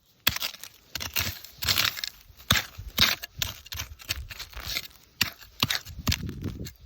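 Irregular scraping, crunching and sharp clicks of a small hand tool digging into soil and plants being pulled, a dozen or so short uneven strokes.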